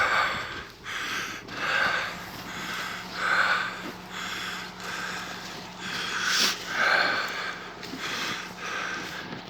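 A man breathing hard close to the microphone, a run of short noisy breaths about one every second, as he gathers deadwood in the forest.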